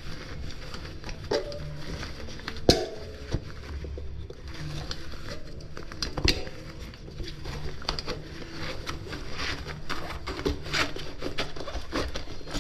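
Handling noises of a mountain bike tyre being worked off its rim: scattered clicks, knocks and rubbing, with the sharpest knocks about 3 and 6 seconds in.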